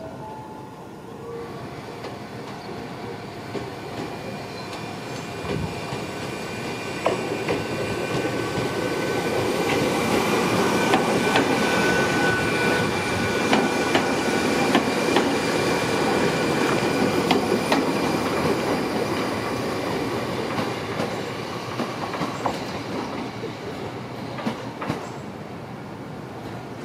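Ohmi Railway 700 series electric train pulling out of a station and passing close by: running noise with wheels knocking over rail joints, building to its loudest as the cars go past, then fading as the train moves away.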